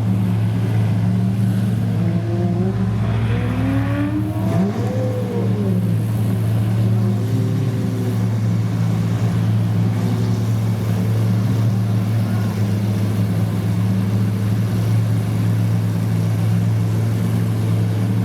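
Supercar engines running with a steady low drone, while one engine revs up with a rising and falling pitch about three to five seconds in.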